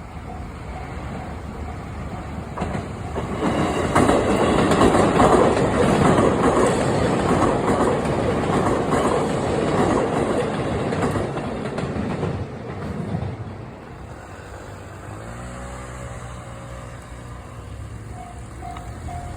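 Japanese level-crossing bell ringing in a steady repeating ding, then a JR Nambu Line electric train passes over the crossing with a loud rumble and wheel clatter, loudest from about four to twelve seconds in and fading by fourteen. Near the end the crossing bell starts ringing again.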